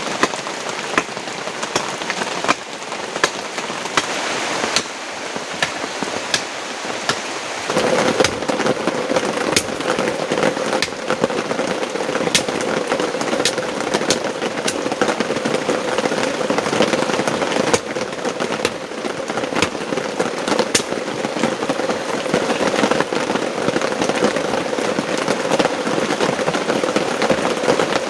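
Heavy rain falling, a steady hiss scattered with sharp taps of drops. The rain grows louder and fuller about eight seconds in.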